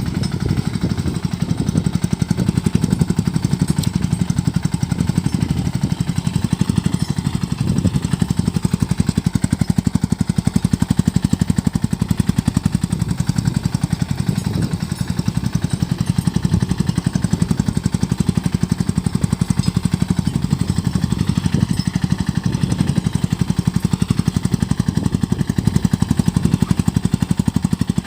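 Sanedo three-wheeled mini tractor's engine running steadily with a fast, even beat while the tractor sows mustard.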